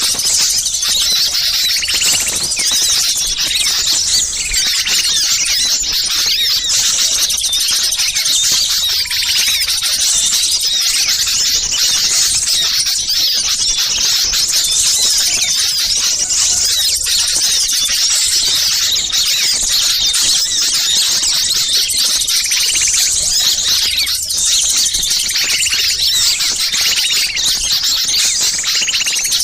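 Dense, unbroken chorus of many small birds chirping and twittering at once. It is a bird-lure recording of small birds calling noisily and agitatedly, played to draw wild birds in.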